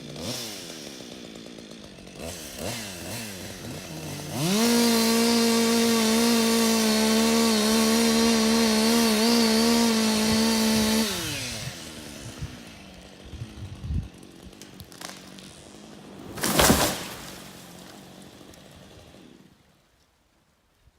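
Chainsaw running at a low idle, then opened up to full throttle at a steady high pitch for about six seconds while cutting, then dropping back down and fading. A loud brief crash comes a few seconds after the cutting stops.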